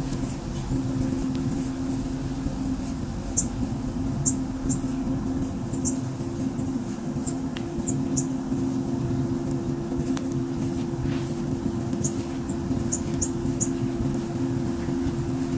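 Small birds chirping: scattered short, very high notes, in clusters about three to five seconds in and again near the end, over a steady low hum.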